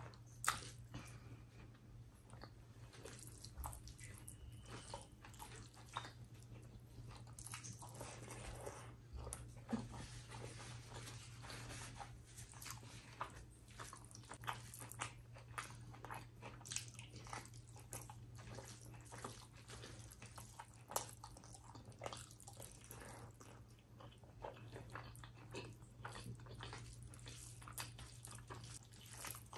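Close-miked chewing of rice and chicken liver curry, with many small wet mouth clicks throughout and fingers squishing rice and gravy together. A steady low hum runs underneath.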